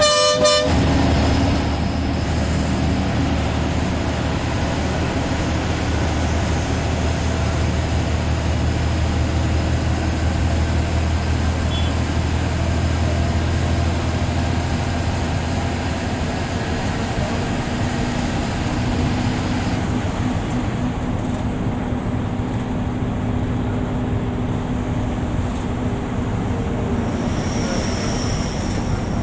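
A short horn blast right at the start, then the steady engine drone and road noise of a TNSTC deluxe bus under way, heard from the driver's cabin. The low engine hum eases off about halfway through.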